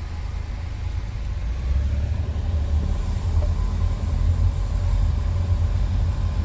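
A steady low rumble that grows slightly louder about two seconds in, with a faint steady hum above it.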